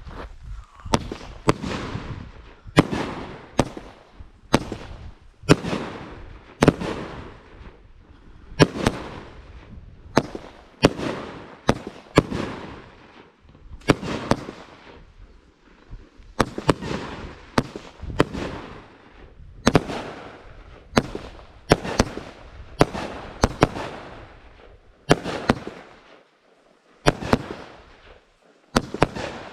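A 'Buck Fever' consumer firework cake firing a long volley of sharp bangs, about one to two a second, each followed by a rolling echo, with a brief pause shortly before the end.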